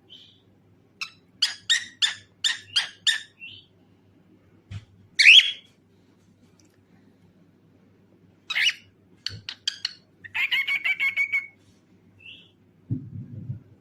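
Cockatiel chirping and calling: a quick run of six sharp chirps, a louder call about five seconds in, then a rapid chatter held at one pitch for about a second and a half near the end.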